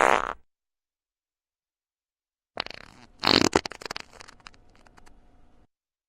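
Fart sound effects. One cuts off just after the start; after a pause of about two seconds another begins, sputtering, loudest about a second in, then trailing off into a run of small sputters.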